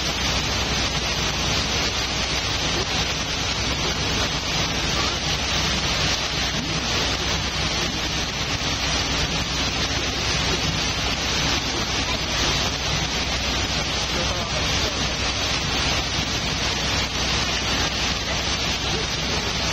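Steady rush of wind and water with the low, even drone of a river sightseeing boat's engine underneath, heard from aboard the boat; wind buffets the microphone.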